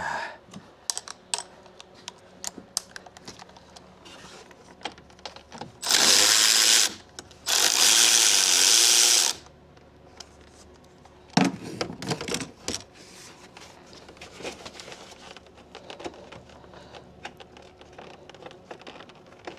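Cordless power tool running in two bursts, about one second and then about two seconds long, spinning a socket on an extension to undo the battery hold-down bolt. Light clinks of tools and a knock come after.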